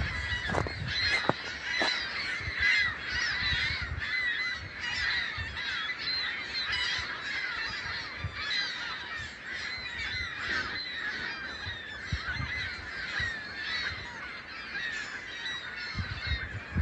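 A flock of hundreds of gulls calling all at once, a dense, unbroken chorus of overlapping cries. There is a low rumble on the microphone during the first few seconds.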